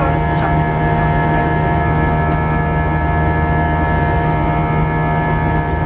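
An Airbus A320's jet engines running steadily, heard from inside the passenger cabin: a loud, even drone with a low hum and several steady whining tones over it.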